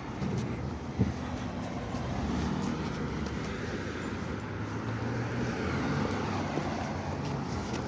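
Street traffic: a motor vehicle's engine running and passing by, its tyre and engine noise swelling in the middle and easing off.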